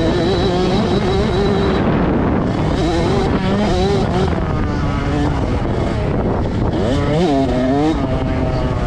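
Several motocross bike engines on the track, revving up and down with rising and falling pitch as they race, one sweeping sharply up and back down about seven seconds in.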